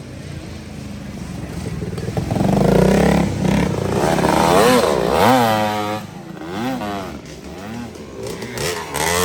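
A motorcycle engine revving, its pitch rising and falling in a series of blips through the middle, louder after the first couple of seconds.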